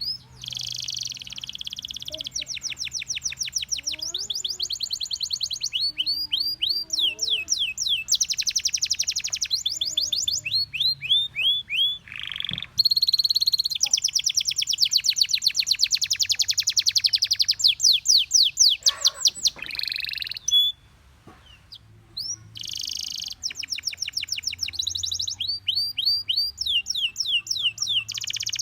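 Gloster canary singing a long song of fast trills and rolls of rapidly repeated high notes, with a short pause about two-thirds of the way through.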